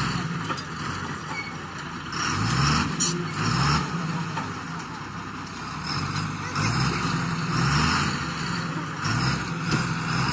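A heavy diesel engine, as on an excavator or truck, running and being revved, its pitch rising and falling several times.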